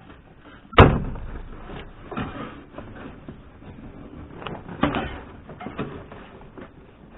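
A sharp bang about a second in, then scattered lighter knocks and rustling: hands and tools at work on a car's interior trim.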